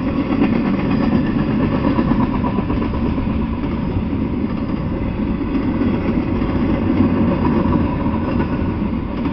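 Double-stack intermodal freight train rolling past: a steady rumble of steel wheels on the rails.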